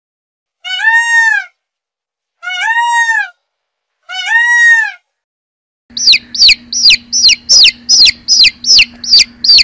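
Indian peafowl (peacock) giving three loud calls about a second and a half apart, each arching up and then down in pitch. About six seconds in, a group of domestic chicks starts peeping quickly, some three to four high, falling peeps a second.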